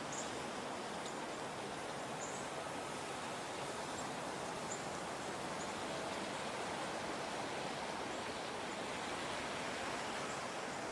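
Steady rush of flowing water, with a few faint, short, high chirps of small birds scattered through it.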